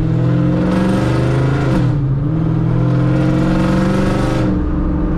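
Cammed, straight-piped 4.6-litre three-valve V8 of a 2005–09 Ford Mustang GT, with long-tube headers, an X-pipe and no mufflers, accelerating hard: the exhaust note climbs in pitch, drops at a gear change about two seconds in, climbs again, then eases off near the end.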